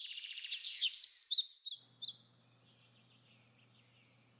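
Songbird song from a stock sound effect: a rapid high trill, then a run of sharp chirps over the first two seconds, with fainter chirping near the end.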